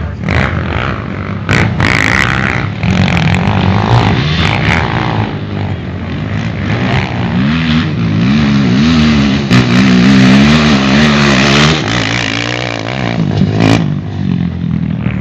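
Motorcycle engines running and revving, their pitch rising and falling, loudest about eight to twelve seconds in, with a few short knocks.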